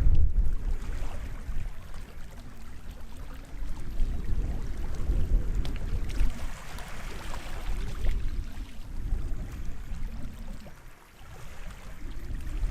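Sea waves washing onto the shore over a deep, shifting rumble, with a louder hissing wash about six to eight seconds in and a brief lull near eleven seconds.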